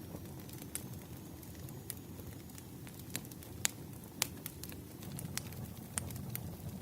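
Wood fire burning with a steady low rumble and irregular crackles and sharp pops, a few louder pops about halfway through.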